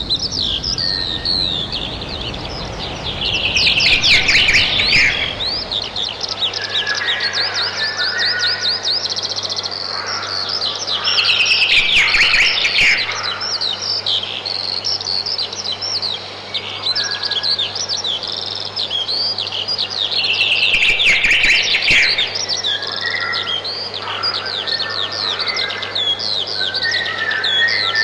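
Many songbirds chirping and singing together in a dense chorus, with louder surges about four, twelve and twenty-one seconds in.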